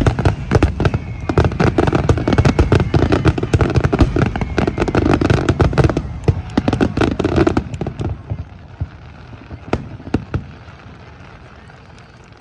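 Aerial fireworks finale barrage: a dense, rapid run of shell bursts with a heavy rumble, thinning out about eight seconds in to a few scattered pops that fade away.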